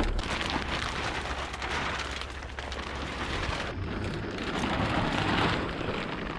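Large plastic silage sheet rustling and crackling as it is unrolled and pulled out, louder about five seconds in.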